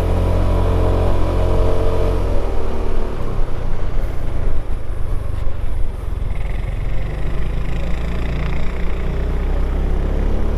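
Motorcycle engine running on the move, with wind rushing over the microphone; the engine note is steady for about two seconds, sinks under the wind rush in the middle, and comes back strongly near the end.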